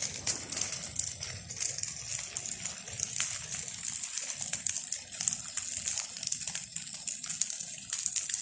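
Large fire of burning palm leaves, a steady rushing hiss with many small sharp crackles and pops.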